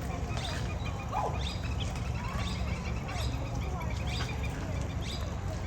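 Several birds chirping and calling in short repeated notes, over a steady low rumble.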